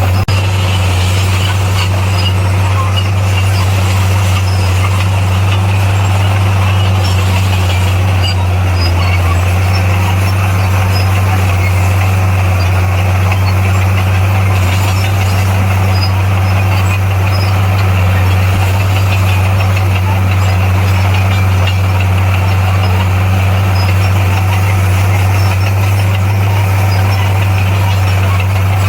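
Bulldozer's diesel engine running steadily, a constant low drone that holds level throughout.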